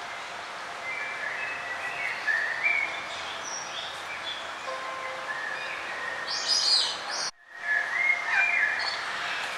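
Several songbirds singing short chirping and warbling phrases over a steady background hiss of outdoor ambience. The sound cuts out for a moment about seven seconds in, then the song resumes.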